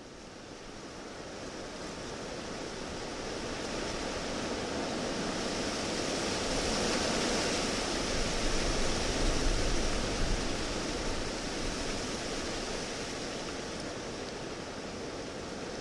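A rushing noise that swells over several seconds, peaks past the middle with a low rumble, then eases off.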